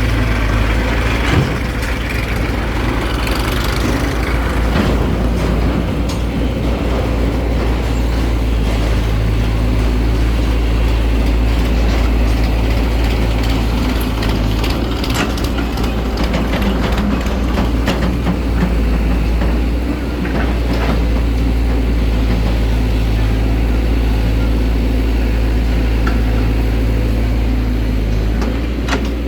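Heavy diesel vehicle engine running steadily under a low hum, with scattered short knocks and clanks.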